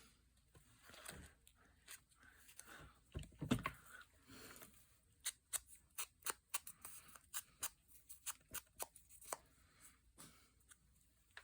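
Paper being handled and cut with scissors: a low rustle and thump about three and a half seconds in, then a quick run of about a dozen sharp snips.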